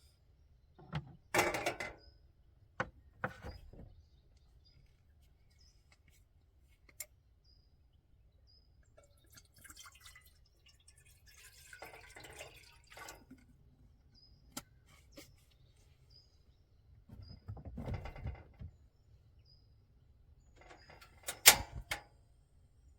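Occasional knocks and clatters of objects being handled, with stretches of rustling, over faint, regularly repeated bird chirps.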